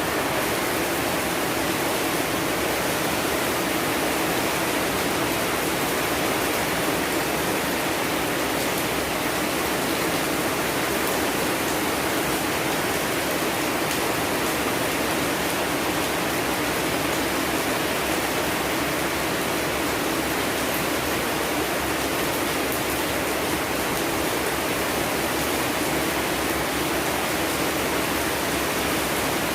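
Steady, unbroken rain: an even hiss of falling water with no pauses or separate drops standing out.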